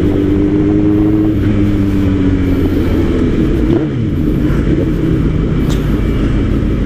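Suzuki GSX-R1000 inline-four engine running under way. The engine note holds steady, then falls off gradually, with a short break about four seconds in before it carries on at a lower pitch, over the rush of riding noise.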